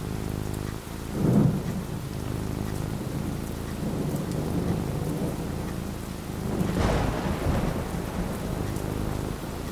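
Thunderstorm: steady falling rain with two rolls of thunder, a short one about a second in and a longer one about two-thirds of the way through.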